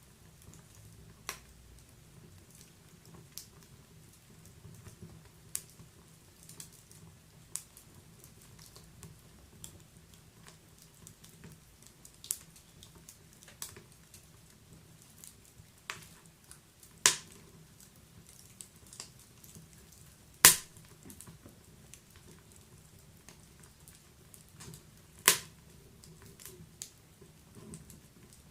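Wood fire in a fireplace crackling, with sharp, irregular pops every second or two over a soft low rumble. The loudest pop comes about two-thirds of the way through.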